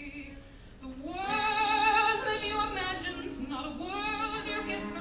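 Female vocalist singing a sustained, vibrato-laden melodic line from a musical-theatre song, with quiet accompaniment underneath. The voice enters with a rising phrase about a second in and swells again in a second rising phrase past the middle.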